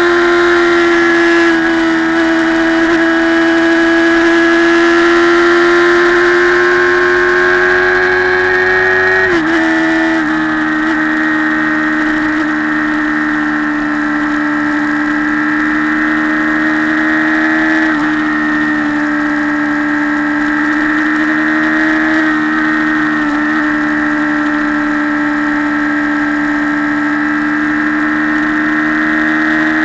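Motorcycle engine running at a steady road cruise, its pitch creeping up slightly before dropping sharply about nine seconds in as it shifts up a gear, then holding steady at the lower pitch.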